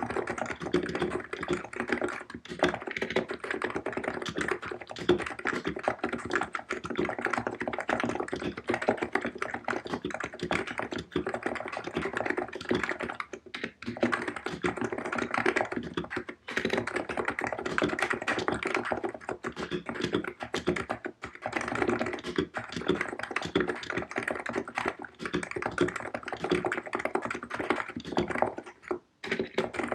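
COX Empress electrostatic capacitive keyboard being typed on fast and without a break, a dense run of key strokes with a few short pauses.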